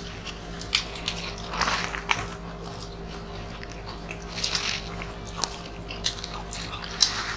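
Close-up eating sounds of several people chewing grilled chicken and rice by hand, with scattered wet clicks and brief rustles, a few louder ones about two seconds in and near the end. A steady low hum runs underneath.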